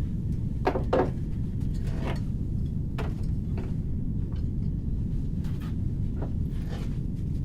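Steady low rumble, with scattered light knocks and clicks over it.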